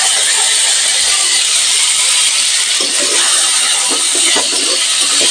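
Thin slices of bitter gourd sizzling steadily in hot mustard oil in a kadai, a loud continuous hiss, with a metal spatula knocking and scraping the pan a few times in the second half.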